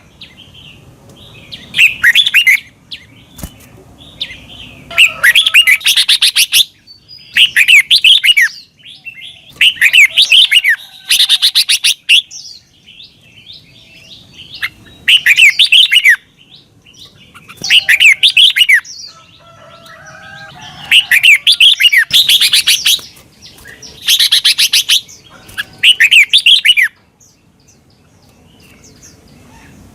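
Red-whiskered bulbul singing: loud, quick warbled phrases of about a second each, repeated every two to three seconds with short pauses between.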